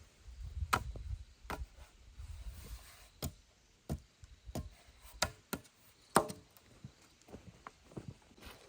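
A series of sharp chopping or knocking strikes, about a dozen at irregular intervals, with a low rumble during the first few seconds.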